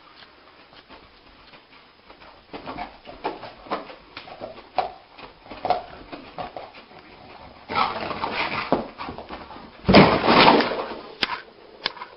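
A dog whimpering and whining in a string of short sounds. Two louder, rougher bursts come about eight and ten seconds in.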